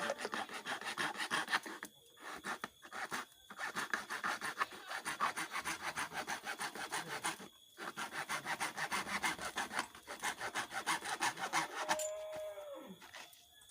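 A saw cutting slots into a PVC well-casing pipe to make it a screen, in fast, even rasping strokes broken by a few short pauses. A brief high tone that falls away comes near the end.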